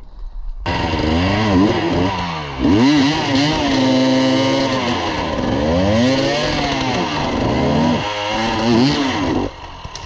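Enduro dirt bike engine revving, its pitch rising and falling several times, with a long high-rev stretch in the middle. It starts suddenly just after the opening and drops back near the end.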